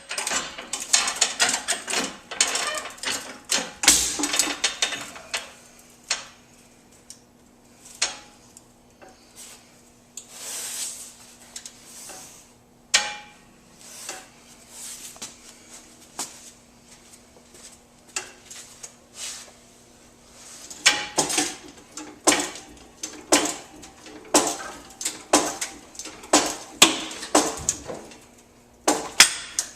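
Jack being pumped to push the car's cowl up: rhythmic metallic clicking and clanking. The strokes come in dense runs at the start and again in the last third, with scattered clinks between.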